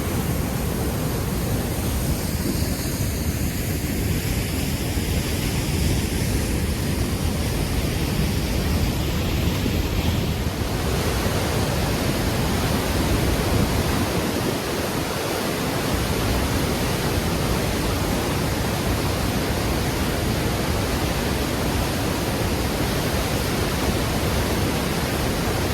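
St. Mary Falls rushing steadily: a dense, unbroken noise of heavy, fast water, turning hissier about ten seconds in.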